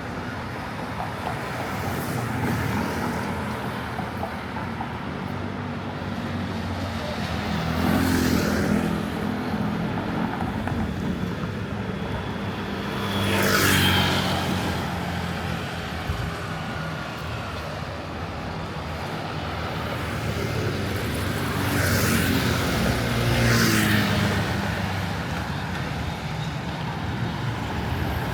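Road traffic: a steady low rumble of engines, with several vehicles passing close by, about four times, each swelling and fading.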